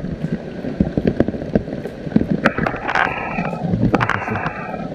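Rain falling, with many single drops tapping close to the microphone.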